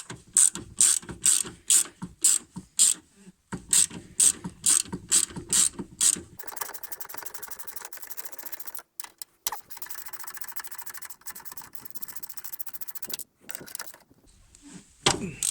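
Ratchet wrench with a 12 mm socket undoing the upper bolts of a strut top mount. It clicks in slow strokes about twice a second for the first six seconds, then gives a fast, continuous clicking for about seven seconds as it is spun, with two short breaks.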